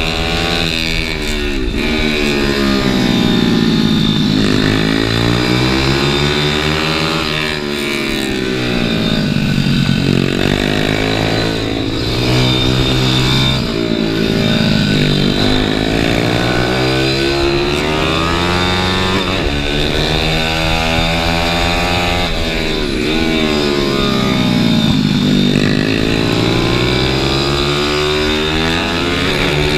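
Pit bike engine heard from on board at racing pace, its pitch climbing hard under acceleration and falling away on braking into corners, over and over through the lap, with wind rush over the microphone.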